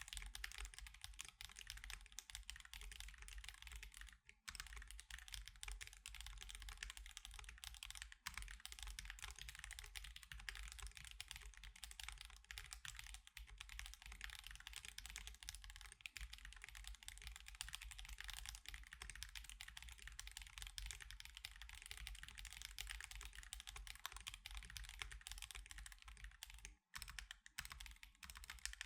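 Steady fast typing on an Akko Alice Pro mechanical keyboard fitted with Akko CS Crystal switches and osumekeys Sakura + Mochi keycaps: a dense run of quiet keystroke clacks, pausing briefly about four seconds in, eight seconds in and near the end.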